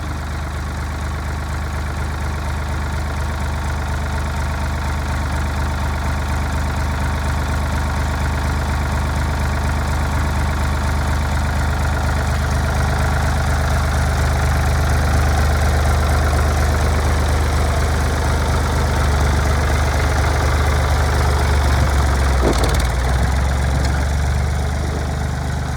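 1974 Ford tractor engine idling steadily, growing a little louder through the middle, with one brief knock near the end.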